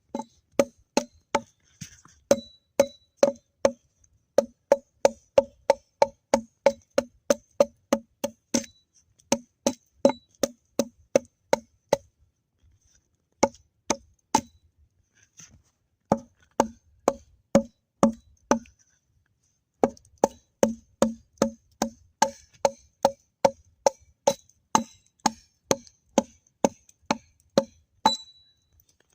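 Wood being chopped with a hatchet or axe: fast, even strikes, about three a second, each with a short hollow wooden ring. The strikes pause twice, briefly.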